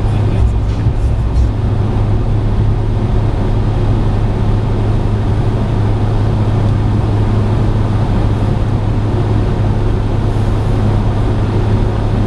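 Steady engine drone and road noise of a car cruising on a highway, heard from inside the cabin of what appears to be the driver's Ford SVT Focus.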